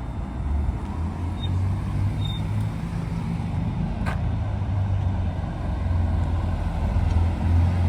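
A car engine running steadily at low revs, a low drone that grows a little louder toward the end, with a single sharp click about four seconds in.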